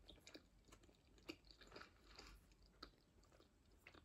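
Faint chewing of a mouthful of tuna pasta salad (penne in tuna mayonnaise with peppers and onion), with small soft clicks scattered irregularly.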